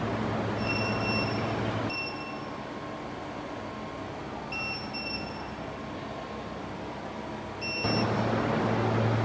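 Mini induction melting furnace running with a steady hum and a fan-like rush. The rush drops away about two seconds in and comes back near the end. Short high beeps repeat throughout.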